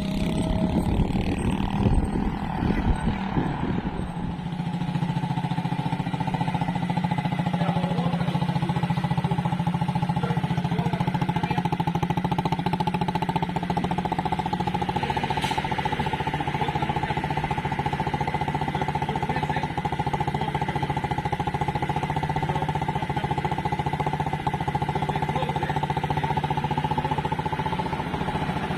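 Child's quad bike running steadily at an even pitch, rougher and more uneven for the first few seconds.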